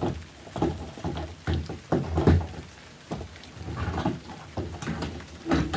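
Plastic toy horse figure handled and knocked against a plastic toy stable, giving a series of irregular soft knocks and thuds, about one or two a second.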